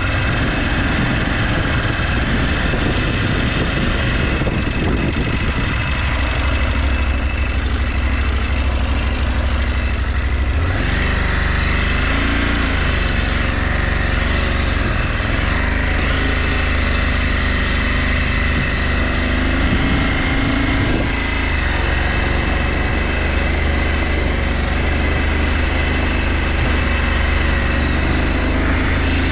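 KTM 890 Adventure's parallel-twin engine running at low speed on snow, the engine note changing about ten seconds in.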